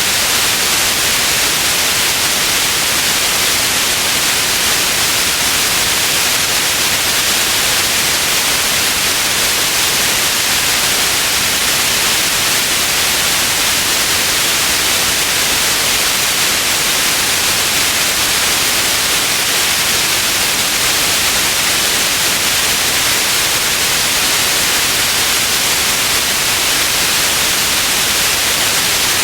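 Steady white noise: an even hiss, strongest in the high frequencies, holding at one level throughout.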